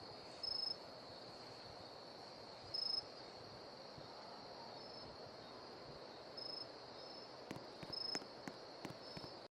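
Faint insect chirping, likely crickets: a steady high trill with a few louder short chirps at irregular intervals, and a few soft clicks near the end.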